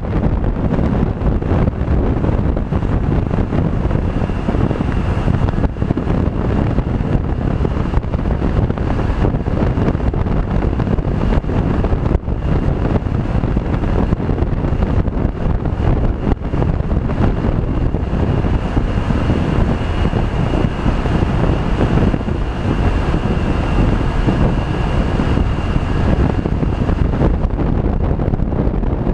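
Steady, heavy wind rushing over the microphone with a motor vehicle running underneath, typical of riding on a motor scooter.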